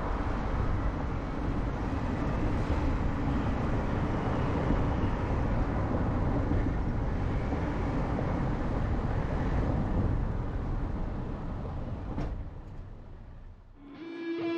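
Car driving along a road: a steady rumble of road and engine noise, with a single click about twelve seconds in, then fading away near the end as guitar music begins.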